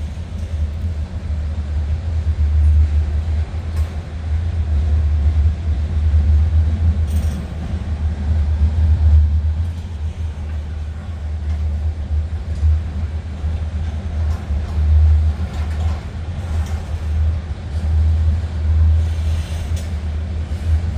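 Union Pacific train rolling past, a continuous low rumble that swells and fades with a few faint clicks.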